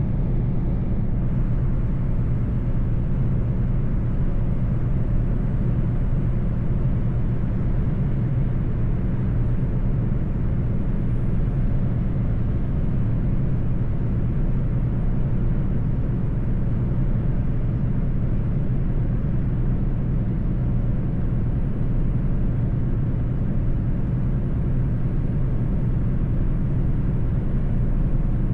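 Mercedes-Benz truck's diesel engine and road noise at a steady cruise: an even, unchanging low drone.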